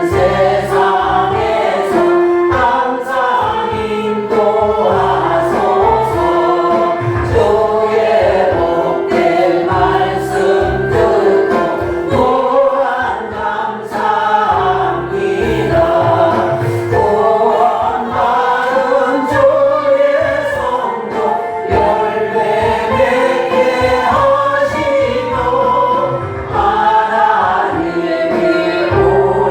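Church congregation singing a hymn together, many voices in unison over sustained low accompaniment notes.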